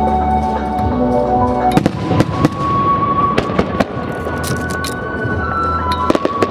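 Aerial fireworks bursting in rapid, irregular volleys of sharp bangs, starting about two seconds in, over show music playing on loudspeakers.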